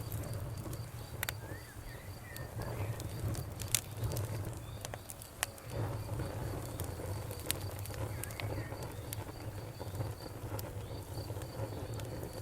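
Campfire crackling with frequent sharp pops over a low rumble, while a cricket chirps steadily about three times a second and a bird gives a few short chirps near the start and again past the middle.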